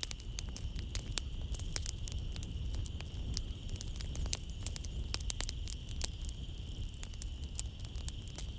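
Wood fire crackling in a fireplace: irregular sharp pops and snaps over a low rumble, with a steady high chirring of crickets behind it.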